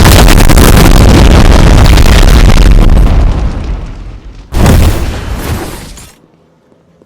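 Extremely loud, distorted blast of noise, clipping at full level, that begins to fade about three seconds in; a second short blast hits about a second and a half later and dies away.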